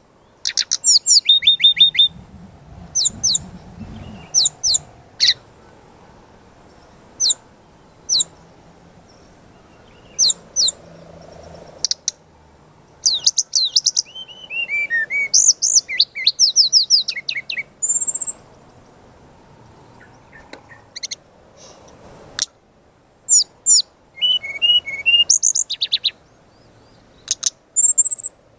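Brown-chested jungle flycatcher (sikatan rimba dada coklat) singing vigorously in aggressive 'fighter' song. Quick series of sharp, high notes each sweeping down in pitch come in short bursts with pauses between. A few lower trilled phrases and brief high whistles are mixed in.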